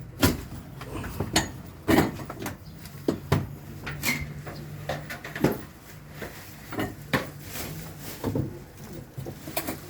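A string of irregular knocks and clatters, hard objects being moved and struck, about fifteen in all, over a steady low hum.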